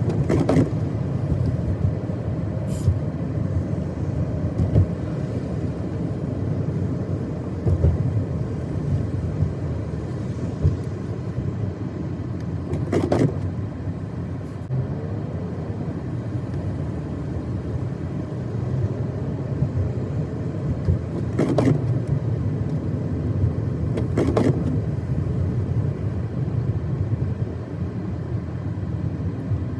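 Car driving on a snow-covered road: a steady low rumble of engine and tyres, with a few brief, sharper sounds that stand out from it.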